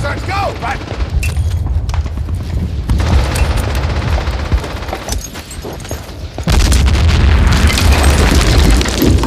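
War-film battle soundtrack: rifle and machine-gun fire mixed with explosions over a heavy low rumble, growing much louder about six and a half seconds in.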